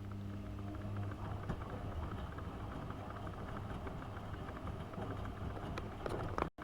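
AEG Öko-Lavamat 72520 washing machine running mid-cycle, its motor humming steadily with light clicking from the drum. The sound cuts out briefly near the end.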